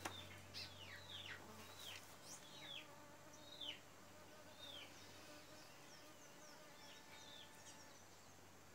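Faint outdoor birdsong: a bird repeating short, downward-sliding whistled notes, about two a second at first and sparser after about four seconds, over a faint steady hum.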